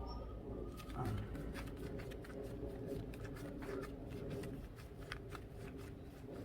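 Quick, irregular clicking and rattling from hand work with tools or parts, starting about a second in and stopping near the end, over a steady low hum.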